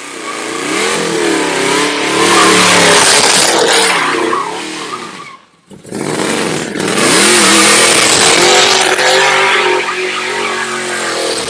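Car engine revving hard with tyres squealing, in two long bursts of about five seconds each, with a short break between them about five and a half seconds in.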